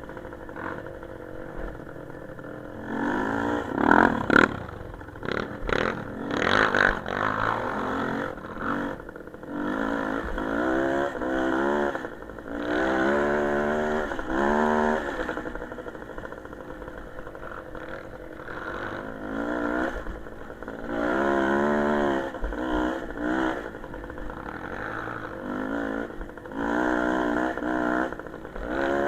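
Small motorcycle engine running under way, its revs rising and falling again and again with the throttle. A few sharp clattering knocks come about four to seven seconds in.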